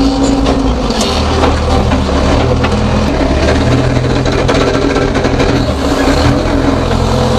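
JCB 3DX backhoe loader's diesel engine running, its note shifting up and down a few times as the machine moves and brakes, with a few short clunks. The operator attributes the clunk on braking to the brake plates inside the housing pressing and releasing.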